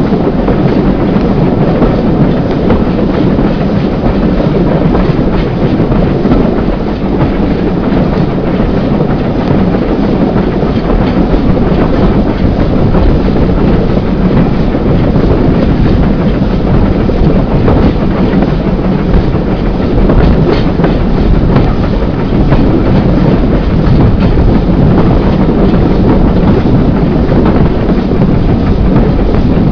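Steam-hauled heritage passenger train running along the line, heard from an open carriage window: a steady, loud rumble of the carriage wheels with the clickety-clack of rail joints.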